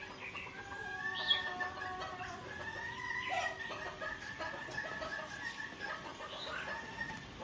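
Rooster crowing, a long drawn-out wavering call, with a few short high chirps from small birds over it.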